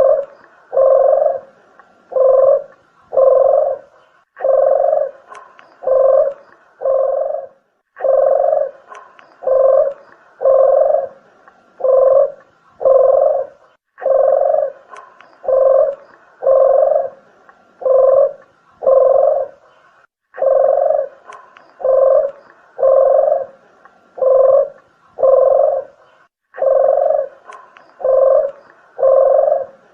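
A dove of the kind called deruk or puter geni, cooing in repeated phrases of about five to seven low, evenly spaced coos with short breaks between phrases, played as a bird-lure call.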